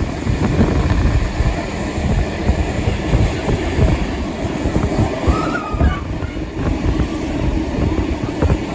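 Passenger train hauled by steam locomotive 3801 running at speed, heard from onboard: a steady, dense rumble of the carriages and wheels on the track.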